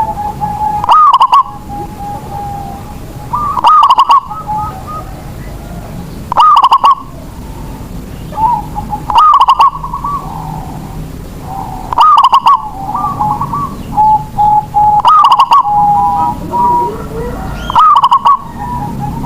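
Zebra dove (perkutut) cooing: a loud phrase that repeats about every three seconds, seven times, with softer cooing notes between the phrases.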